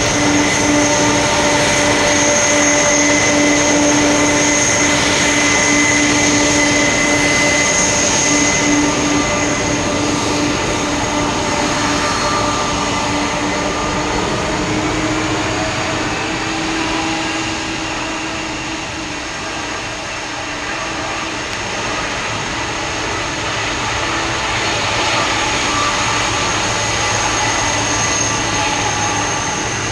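Boeing 747-400F cargo jet's engines running with a steady, loud turbine whine made of several held tones over a rushing noise. The tones shift slightly in pitch partway through, and the level dips a little before rising again near the end.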